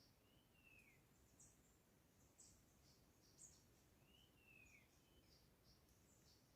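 Faint birdsong: a slurred whistle that rises briefly and then falls, repeated twice about four seconds apart, among short high chirps.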